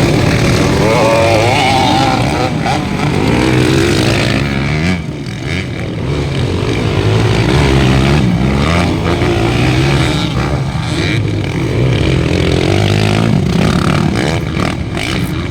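Several motocross bikes' engines racing together, revving up and down so that their pitches rise and fall over one another, with a short lull about five seconds in.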